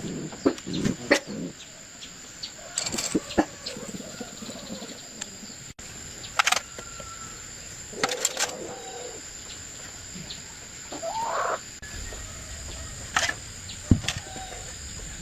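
Scattered sharp clinks and knocks, like tools on metal, with a chicken clucking briefly about eleven seconds in.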